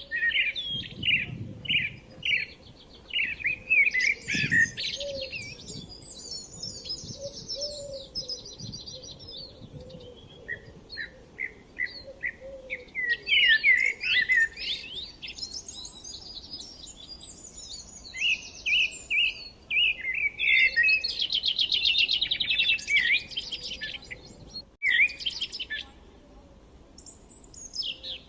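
Several songbirds chirping and singing, quick repeated chirps and rapid trills overlapping, with a short gap about three-quarters of the way through.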